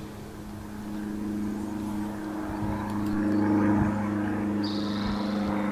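A steady engine drone that grows louder over the first few seconds and then holds.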